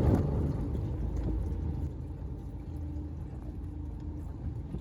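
Strong wind buffeting the microphone on a fishing boat: a low rumble that eases after about two seconds, with a faint steady hum underneath.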